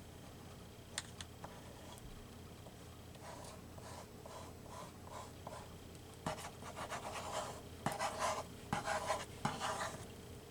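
Paper being rubbed and smoothed down as it is glued, in repeated short scratchy strokes that grow louder about six seconds in, with a couple of light taps about a second in.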